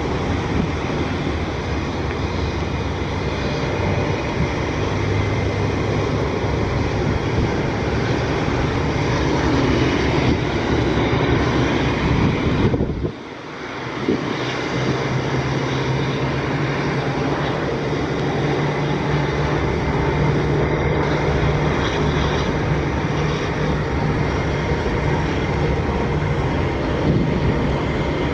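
Airbus A350-900's Rolls-Royce Trent XWB turbofan engines at takeoff thrust: a loud, steady jet rush with a low hum underneath. About thirteen seconds in, the sound drops away abruptly for a moment and then comes back.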